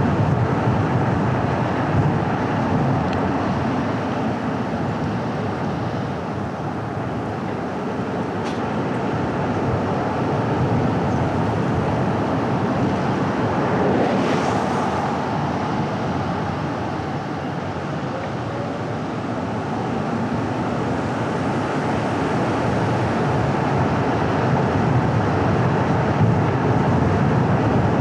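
A car driving on a winding paved road: steady tyre and engine noise that swells and eases slowly, with a brief hiss about halfway through.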